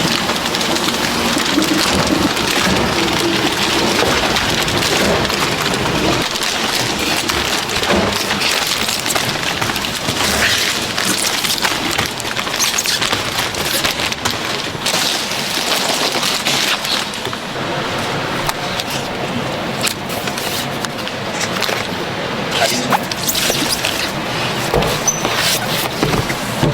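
Cabin-filter production machinery running: a loud, steady, dense clatter made of many small rapid clicks.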